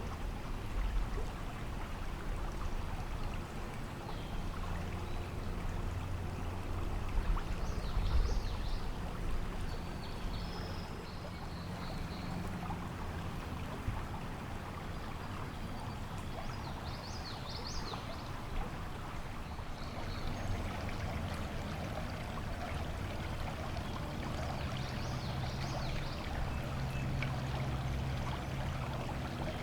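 Steady outdoor rushing background noise with a low hum beneath it, and a few faint, high, short chirps scattered through it.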